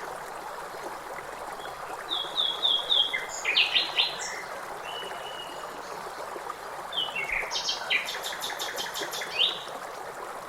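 Songbirds singing over the steady rush of flowing river water: a run of repeated notes about two seconds in, a cluster of notes around four seconds, and a longer burst of rapid notes near the end.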